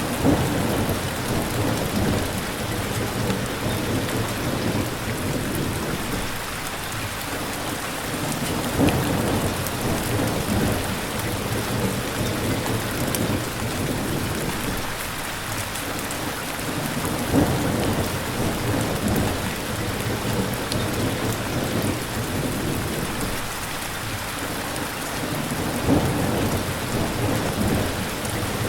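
Steady heavy rain with low rolls of thunder that swell about every eight or nine seconds.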